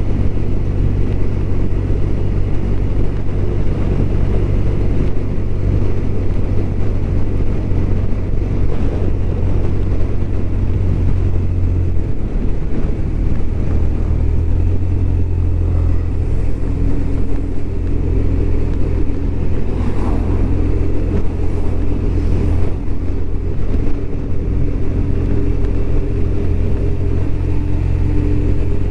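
BMW R1200RT's boxer twin engine running steadily under way, a continuous low drone; the engine note drops slightly about twelve seconds in.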